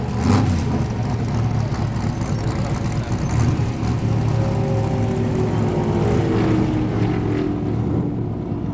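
Stock car's V8 engine running hard at speed, a dense low drone, with a pitch that slowly falls from about four seconds in.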